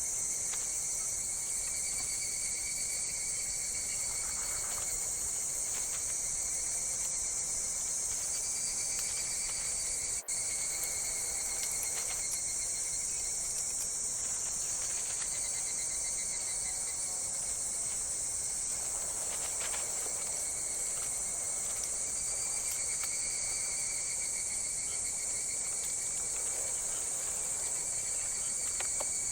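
Dense chorus of insects, crickets and the like, trilling steadily and high-pitched with several overlapping chirping layers; it cuts out for an instant about ten seconds in.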